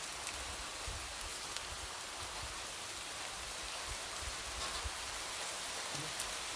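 Light rain falling steadily, pattering on a window with scattered faint drop ticks.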